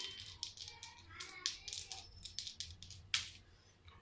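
Two plastic dice rattling and clattering: a quick run of small clicks, then one sharp click about three seconds in.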